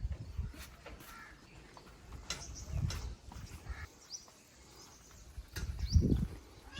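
Outdoor rural sounds: a few short high bird chirps, with scattered clicks and low thumps, the loudest thump about six seconds in.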